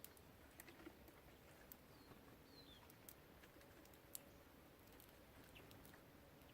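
Faint, irregular clicks and taps of small songbirds at a feeder, pecking at seed and hopping about, the sharpest tap a little after four seconds in. Around two and a half seconds in there are a couple of short, high, falling chirps.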